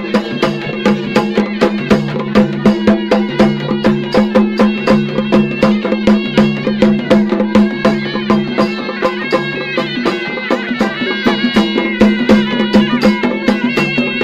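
Traditional folk music: rapid, steady drumbeats over a held drone, with a wavering melody on a high-pitched instrument.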